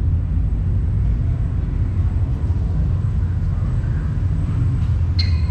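Steady low rumble with no speech, and a short high squeak near the end.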